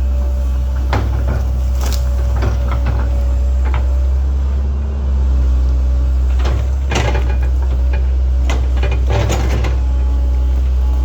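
Link-Belt 2700 excavator's diesel engine running steadily, with scattered knocks and scrapes from the machine working, the loudest clusters about a second in, around seven seconds and around nine seconds.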